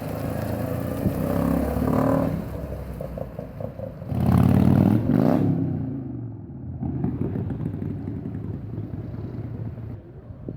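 Car engine running, with a loud burst of acceleration about four seconds in, its pitch rising, then fading back to a lower rumble.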